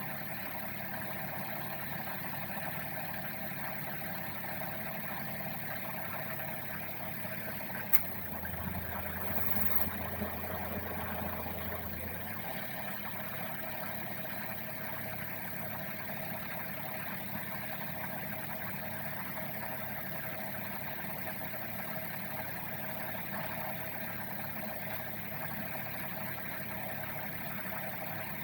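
Suzuki Wagon R idling steadily with its air conditioner running to defrost the car. A single click comes about eight seconds in, followed by a low hum that lasts about four seconds.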